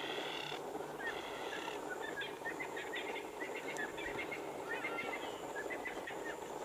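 Wild birds chirping and calling, many short whistled notes one after another, with two longer buzzy calls in the first two seconds, over steady background noise.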